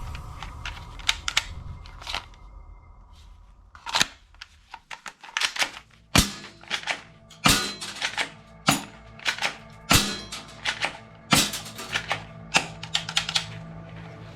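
Toy guns being fired and worked: a run of sharp pops and clicks, the loudest shots coming about every second and a quarter, over background music.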